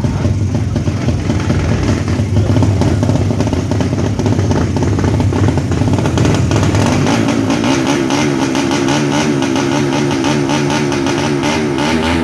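Tuned 200cc underbone drag-racing motorcycle engines running loud and revving; from about seven seconds in one engine settles into a steady, wavering note, as if held at high revs.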